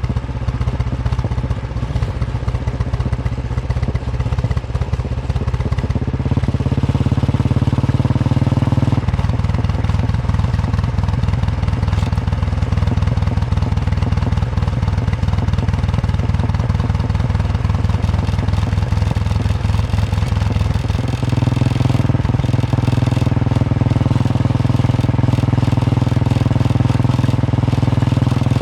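Royal Enfield Bullet 350's single-cylinder engine thumping under way on a ride. The engine note changes in steps three times, about a quarter in, a third in and about three quarters through, and gets louder after the first change.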